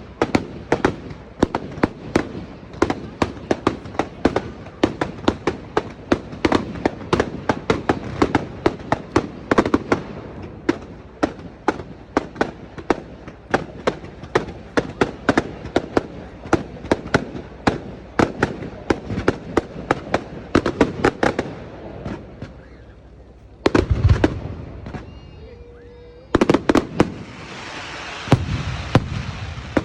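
Fireworks going off: a long, dense run of sharp crackling bangs, several a second, for about twenty seconds. It thins to a lull, then heavier booms and crackles come near the end.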